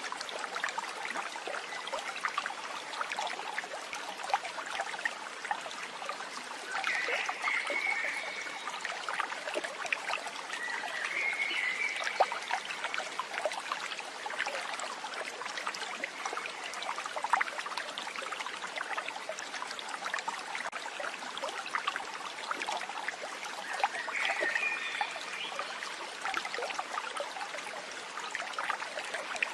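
Steady trickle of a babbling stream, with a few short chirps about 7, 11 and 24 seconds in.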